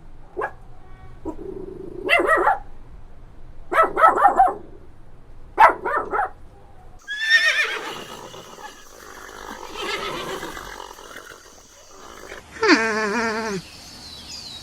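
Animal calls: three short calls about two seconds apart, then a longer, rougher call, and near the end a call that falls steeply in pitch.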